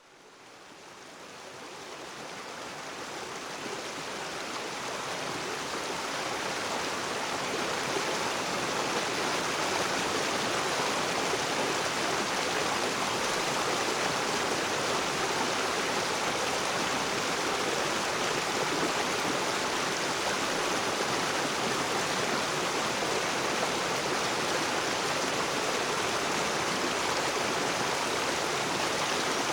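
River water rushing and splashing over rocks, a steady full wash of noise that fades in over the first several seconds and then holds even.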